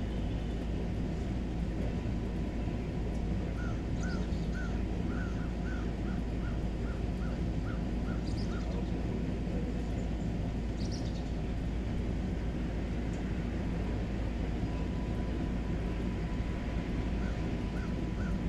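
A bird calling a quick run of about a dozen short, even notes over some five seconds, then a few more near the end. Under it there is a steady low noise and now and then a faint, high chirp.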